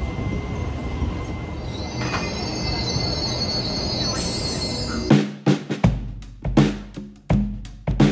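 TRA EMU3000 electric train running on the rails with a steady rumble, and a high wheel squeal that comes in about two seconds in and grows louder. About five seconds in, music with a hard drum beat starts.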